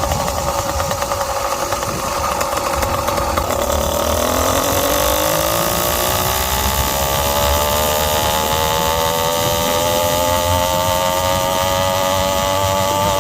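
Zeda YD100 two-stroke motorized-bicycle engine with an expansion-chamber exhaust, its pitch sagging for the first few seconds and then winding up steadily as it pulls to higher revs.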